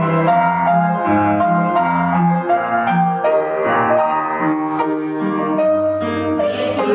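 Piano music playing as accompaniment for a folk dance barre exercise, with a short noisy burst near the end.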